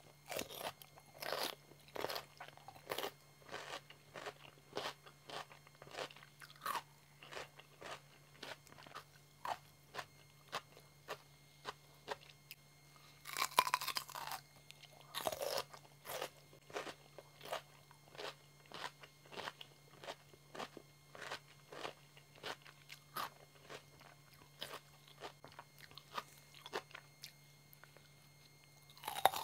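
Close-up crunchy chewing of raw cucumber, a steady run of crisp wet crunches about one or two a second. There is a louder, longer crunch of a fresh bite about halfway through.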